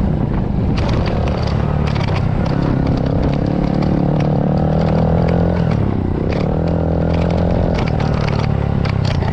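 Small four-stroke pit bike engine ridden on a dirt track, revving up and dropping back twice as the rider works the throttle and gears. Rattles and knocks from the bike run over the rough ground.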